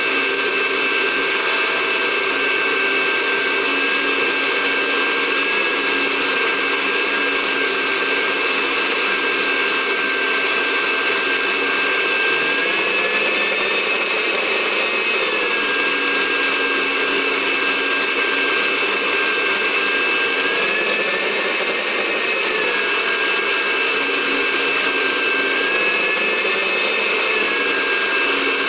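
Electric blender running continuously as it grinds bird food, a steady motor whine whose pitch climbs slowly three times and drops back each time.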